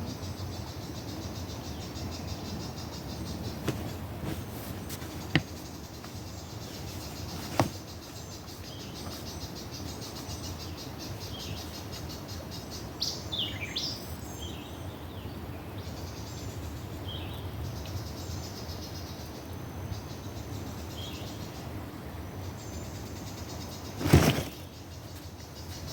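Outdoor ambience: a steady low rush with insects buzzing and birds chirping a few times from about the middle on. Two sharp clicks come early, and a louder thump near the end.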